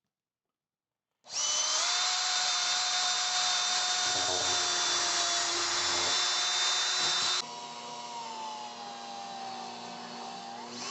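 Power drill working into a tough PVC plastic board, running with a steady high whine starting about a second in. About seven seconds in it drops to a quieter run, its motor pitch slowly falling.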